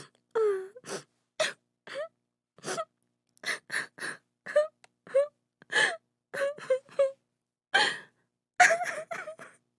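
A woman crying and sobbing in short, broken gasps and whimpering wails, each catch of breath separated by brief silences, with a cluster of rapid sobs near the end.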